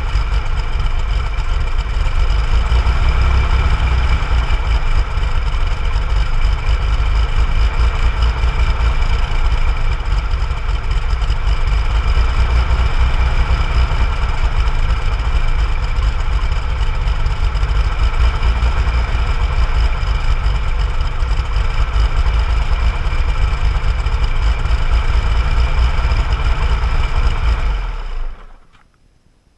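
1965 Chevrolet Corvair Corsa's air-cooled flat-six engine idling steadily. It stops abruptly about two seconds before the end.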